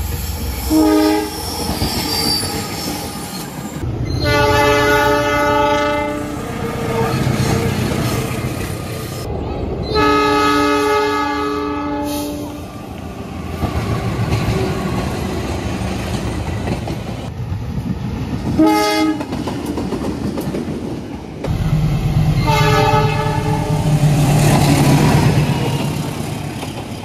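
Diesel locomotives passing close by on a series of cut-together clips, their horns sounding several times: a short blast about a second in, two long blasts around 4–6 s and 10–12 s, a short one near 19 s and another around 22–23 s. Between the horns, the engines rumble and the wheels click over the rail joints.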